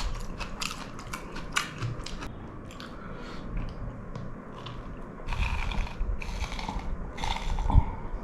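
A person chewing a mouthful with raw onion close to the microphone: a quick run of sharp crisp crunches in the first two seconds, a quieter stretch of chewing, then more crunchy chewing bouts in the second half.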